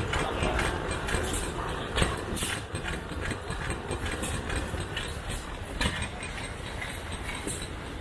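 1910 Fielding and Platt hot-bulb oil engine running slowly and steadily, warmed up, with a low steady beat and recurring sharp knocks from its firing strokes.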